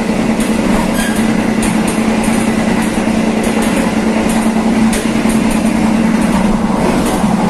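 Passenger train running along the track, heard from the rear of the last coach: a steady rumble and hum of wheels on rails, with many light, uneven clicks.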